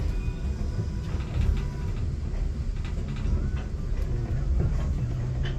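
Passenger train rolling slowly out of a station: a steady low rumble with occasional light clicks.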